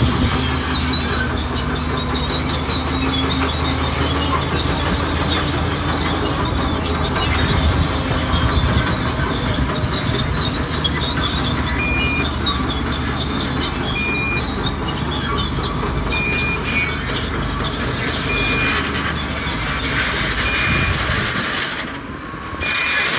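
Bulldozer running under load, engine rumbling while its steel crawler tracks squeal. In the second half a short high beep repeats about every two seconds.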